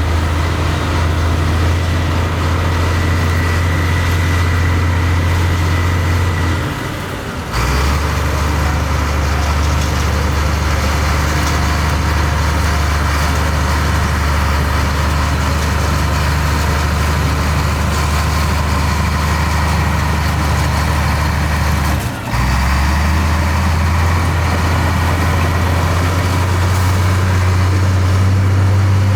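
Heavy diesel engine of earthmoving machinery running steadily. Its note drops away briefly twice, about seven seconds in and again about twenty-two seconds in, and settles at a different pitch after each. It rises slightly near the end.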